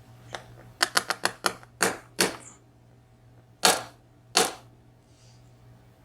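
Sharp metallic clicks and taps from handling a dismantled dimple lock and its small parts: a quick run of about five clicks, two more, then two louder ones a little apart.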